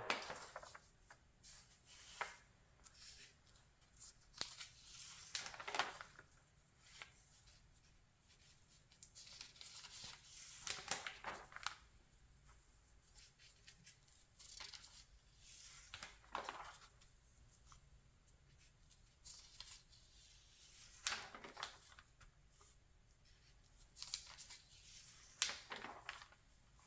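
Pages of a glossy magazine being turned by hand, faint papery swishes and rustles every second or two at an uneven pace.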